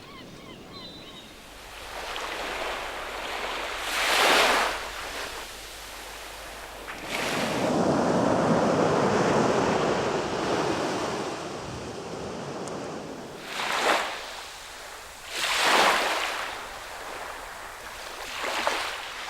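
Sea waves breaking and washing on the shore: short splashing surges about four seconds in and again near fourteen, sixteen and nineteen seconds, with a longer rush of surf from about seven to eleven seconds.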